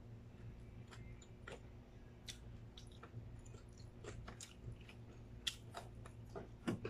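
A person chewing and biting into a potato wedge close to the microphone: quiet, irregular mouth clicks and small crunches, over a faint steady low hum.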